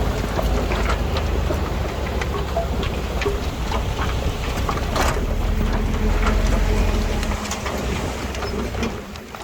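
Komatsu D31PX bulldozer's diesel engine running steadily with a low rumble, over many scattered clicks and crackles of steel tracks and soil, quieter near the end.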